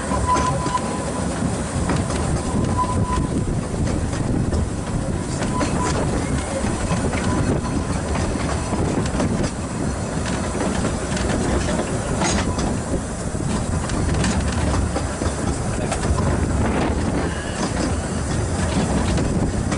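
Small narrow-gauge steam train running, heard from the carriage: a steady rumble of wheels on track with irregular clicks over rail joints. A thin wheel squeal comes and goes over the first several seconds.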